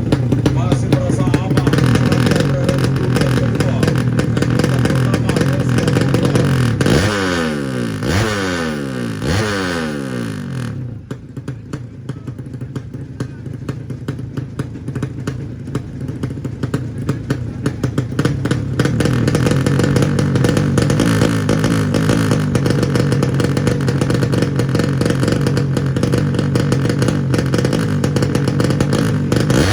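Drag-racing underbone motorcycles with 200cc horizontal ('sleep') engines running hard, with several rising revs in quick succession about a third of the way in as bikes accelerate through the gears. A voice runs underneath.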